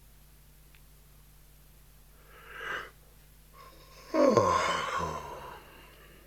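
A person sneezing: a short breath drawn in, then a loud sudden burst about four seconds in, falling steeply in pitch.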